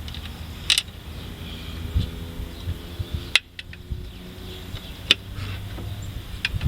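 A few sharp, separate clicks of metal hand tools being handled: a smaller socket picked out and tried on a fastener. Under them runs a low steady hum.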